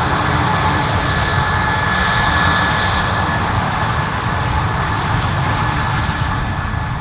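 Aircraft turbine engines running loud and steady, a high whine over a deep rumble, easing off slightly in the second half.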